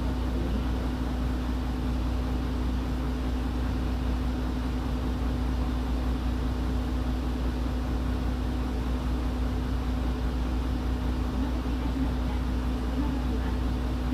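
Route bus engine and running noise heard from inside the cabin: a steady low rumble with a constant hum, with no change in engine speed.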